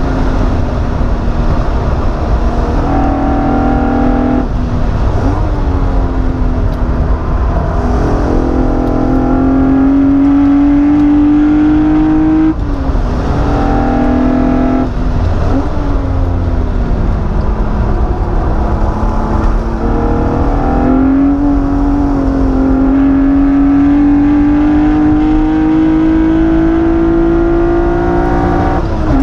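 Alfa Romeo SZ's 3.5-litre V6, heard from inside the cabin, working hard around a circuit: its pitch climbs under acceleration and breaks and drops several times at gear changes and lift-offs, over steady road and wind noise.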